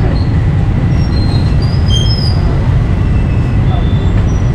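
Busy street-market background noise: a steady low rumble with short, high-pitched squeaks scattered through it.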